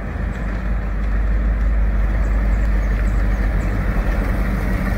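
Classic Ford Thunderbird's V8 running as the car rolls slowly along the street, a steady low exhaust rumble.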